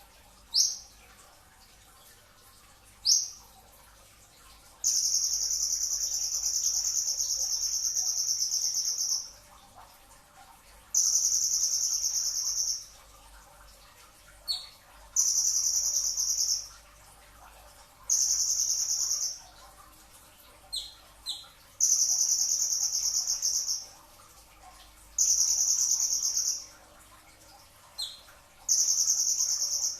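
Kolibri ninja (brown-throated sunbird) singing: seven long, rapid, high-pitched buzzing trills of a few seconds each, with short upswept chirps in the gaps between them.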